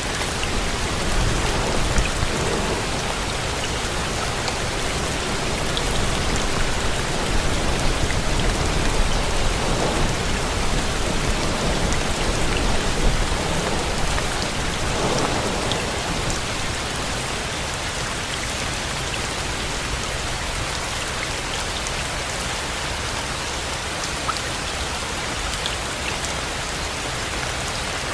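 Steady heavy rainfall, with a low rumble of distant thunder under it through roughly the first half that dies away about halfway through.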